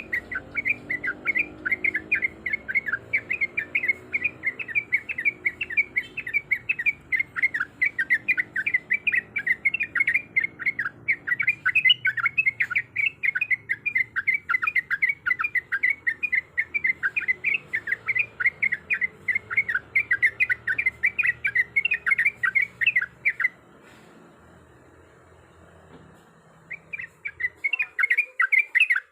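Yellow-vented bulbul (trucuk) calling in a fast, continuous chatter of short chirps, about four to five a second. The chatter stops for a few seconds near the end and then starts again.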